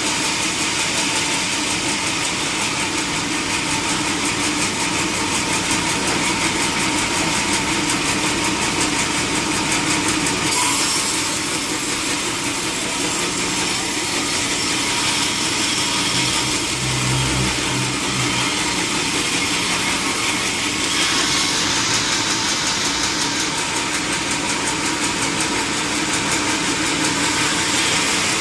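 Sawmill machinery running steadily with a constant hiss and hum, engine-like, between cuts rather than sawing through wood. A brief low hum comes in about two-thirds of the way through.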